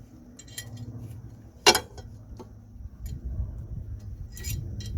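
Small metal brake parts clinking and clicking as a drum brake's parking-brake mechanism and shoes are fitted by hand, with one sharp click about a second and a half in and a few lighter ticks.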